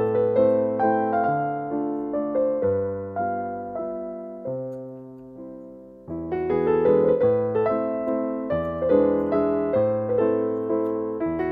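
Background piano music: a melody over a bass line, thinning out and growing quieter, then coming back in fuller about six seconds in.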